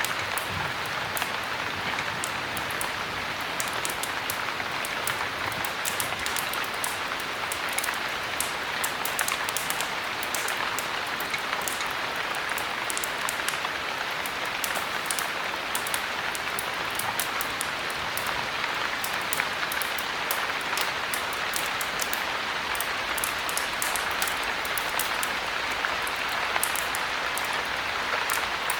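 Steady heavy rain, an even hiss with many sharp little ticks scattered over it.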